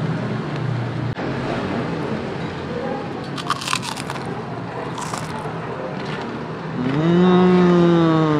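Mouth crunching through crisp deep-fried chicken skin (kulit ayam), with a few sharp crunches about three and a half and five seconds in. Near the end comes a long hummed "mmm" of enjoyment.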